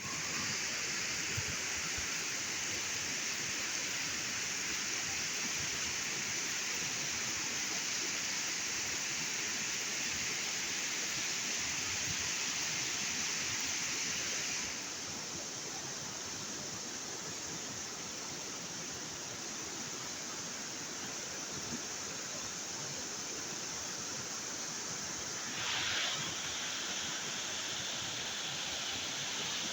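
The Zumpul River rushing, a steady broad hiss of fast-flowing water. It turns a little lower and quieter about halfway through, with a brief swell near the end.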